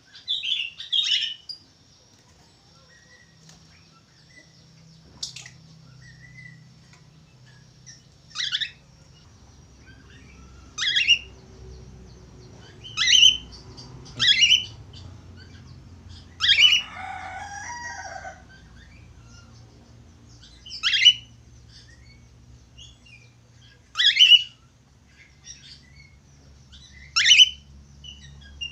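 Budgerigar calling: short, sharp chirps repeated every two to three seconds, with one longer, harsher chattering call about midway.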